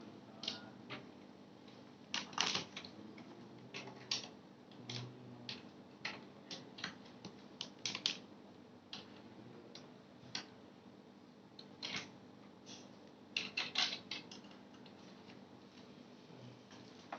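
Irregular clicks and taps of small hard parts being handled during work on a mini PC, some coming in quick clusters of two or three.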